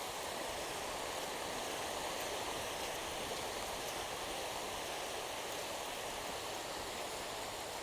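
Steady rush of surf on a sandy beach: an even, unbroken noise with no distinct wave breaks.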